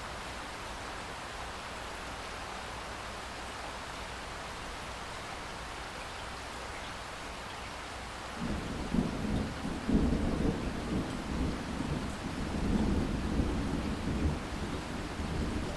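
Steady rain hiss with distant thunder. About halfway through, a low rumble of thunder begins and keeps rolling in swells, loudest a second or so after it starts.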